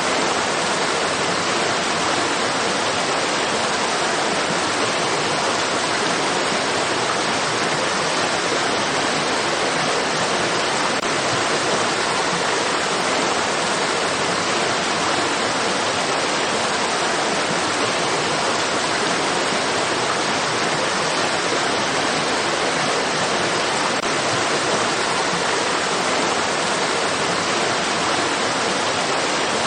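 Steady rushing of running water, an even hiss that never changes.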